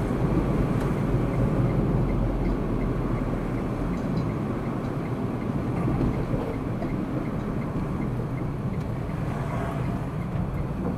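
Steady road noise of a car driving, with engine and tyre noise and no sudden events.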